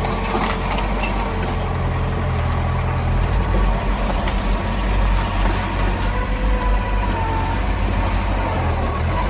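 Heavy diesel earthmoving machinery running steadily with a deep, low engine rumble, a little louder from about three seconds in.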